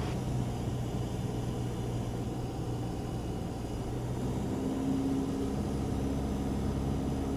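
Cessna 172's piston engine and propeller droning steadily in level cruise flight. About four seconds in, a slightly higher steady tone joins the drone.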